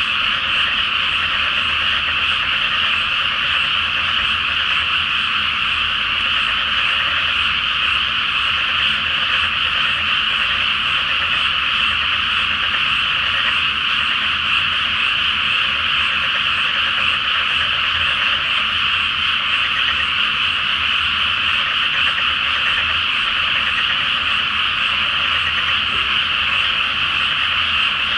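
Large chorus of many frogs croaking together, a dense and steady wall of calls with no pause.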